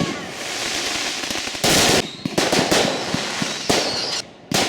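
Fireworks going off: a loud bang about one and a half seconds in, followed by a run of rapid crackling pops, and another bang near the end.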